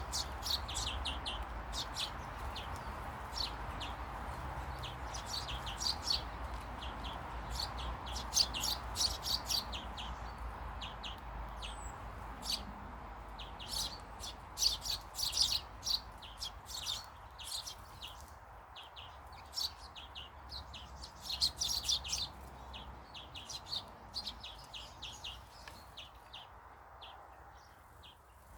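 Small garden birds chirping, with many short, high chirps in quick, irregular runs, over a steady low background hum.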